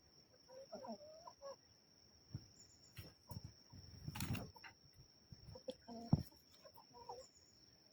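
Kadaknath roosters fighting: short clucks and squawks in two spells, with scuffling knocks between them and one sharp knock about six seconds in.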